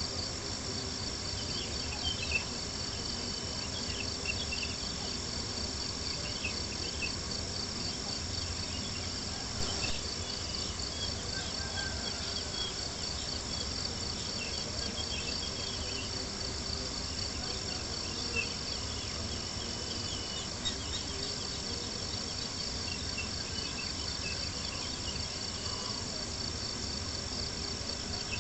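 Crickets chirping in a steady, fast-pulsing high trill, with small scattered crackles of a campfire and a low, even rumble underneath.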